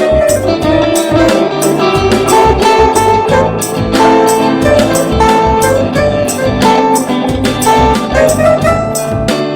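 A band playing an instrumental passage: drums with regular cymbal hits over a bass line and guitar, with sustained melody notes.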